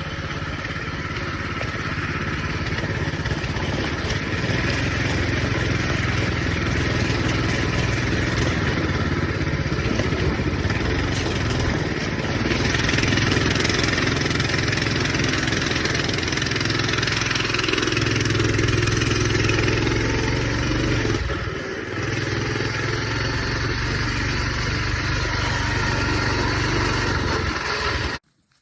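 Coleman BT200X minibike's small single-cylinder four-stroke engine running under way as it is ridden, its speed rising and falling, with a short dip a little after three-quarters through. The sound cuts off abruptly just before the end.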